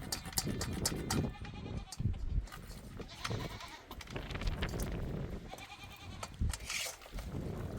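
Goats bleating several times, with scattered clicks and knocks between the calls.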